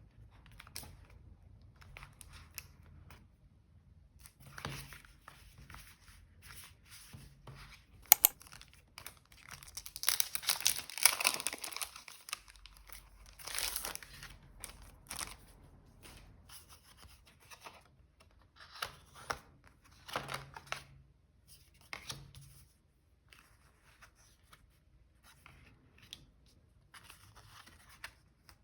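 Paper craft materials being handled by hand: scattered rustling and light taps, a couple of sharp clicks, and a longer tearing sound about ten to twelve seconds in, with a shorter one soon after.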